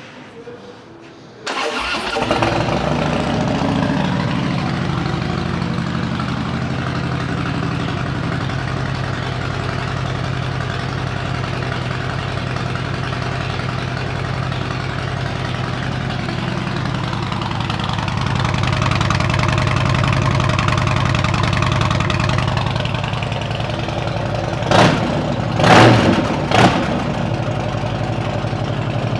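Harley-Davidson Street Bob V-twin with Vance & Hines downswept exhaust starting up about a second and a half in, then idling steadily. Near the end it gets three short blips of the throttle.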